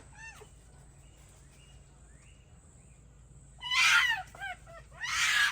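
A fox calling impatiently for its food: a few faint yips at first, then two loud bursts of shrill, high calls about a second apart near the end.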